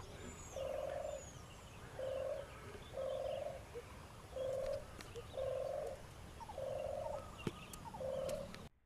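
A bird calling in the trees: seven short, even-pitched calls about once a second, with a few faint high chirps from other birds. The sound cuts off suddenly near the end.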